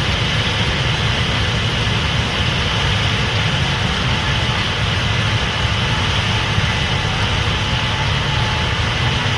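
Case IH 8250 Axial-Flow combine running steadily while harvesting corn: a constant deep engine drone under a steady higher machine hum.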